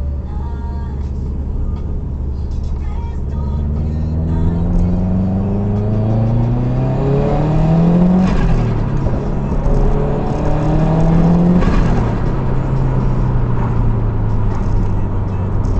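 Turbocharged car engine accelerating, its pitch climbing steadily, then lifting off twice. Each lift-off brings a short fluttering rush of turbo flutter (compressor surge), because the recirculating valve is blanked off.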